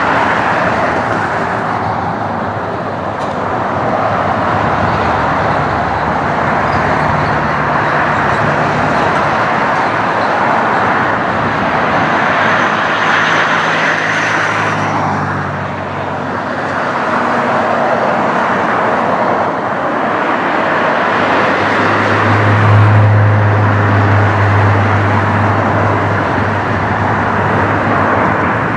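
Jet airliner engines running with a steady, loud roar. A faint high whine shows in the middle, and a low hum grows stronger about three-quarters of the way through.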